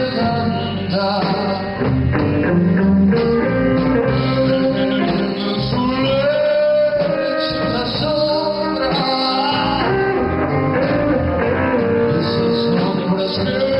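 A band playing a song, with a singing voice carried over the instruments.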